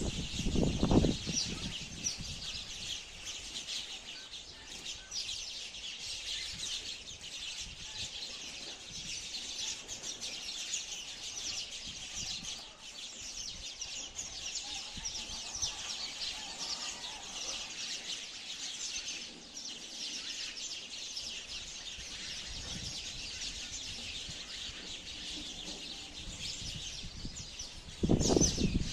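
Many sparrows chirping together in a dense, continuous chatter of short, high chirps. Loud low rumbling bumps come in the first second and again near the end.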